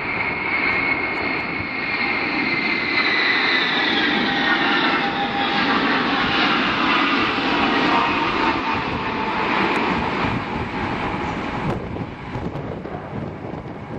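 Engines of an Ilyushin Il-76 cargo jet running, their whine falling steadily in pitch over several seconds. The whine fades about twelve seconds in.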